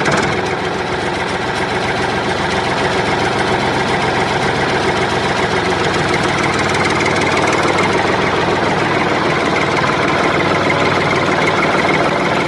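A motor running steadily with an even mechanical drone.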